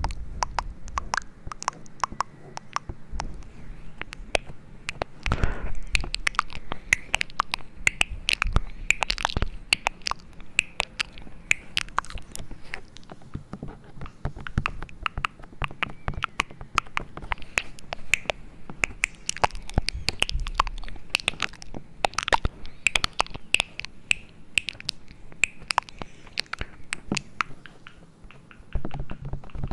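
Dense, irregular clicks and taps close to the microphone, several a second, with a faint low rumble underneath.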